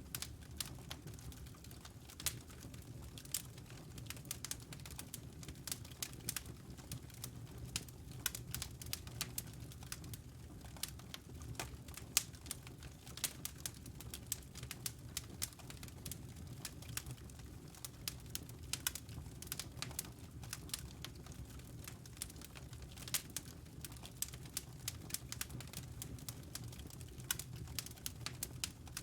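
Wood fire crackling in a fireplace: a steady stream of irregular sharp pops and snaps over a low steady hum, with one louder pop about twelve seconds in.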